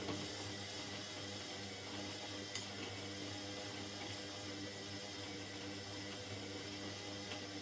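Indesit 71252 washing machine running: a steady low hum with water rushing through it, and a single sharp tick about two and a half seconds in.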